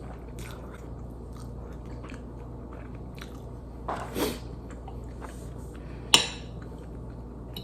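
Mouth-close eating sounds of a first bite of spicy instant noodles: quiet chewing, with a short louder sound about four seconds in and a sharp click, the loudest sound, about six seconds in. A steady low hum runs underneath.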